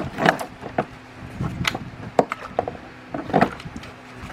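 A car battery being handled and set into place: a series of hard knocks and clunks at irregular intervals.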